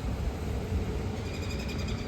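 Strong wind rushing and buffeting the microphone, a steady noise heaviest in the low rumble. Past halfway, a faint high-pitched chirping rattle sounds for about a second.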